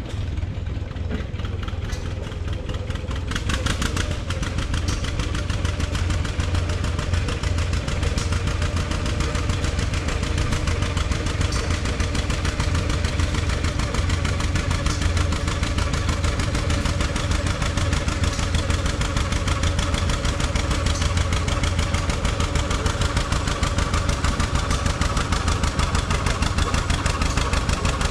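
Antique tractor engine running at a steady speed with a fast, even firing beat, picking up slightly about four seconds in.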